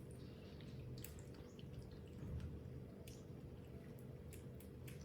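Faint, scattered wet clicks and squishy smacks of juicy mango being handled and eaten, over a low steady hum.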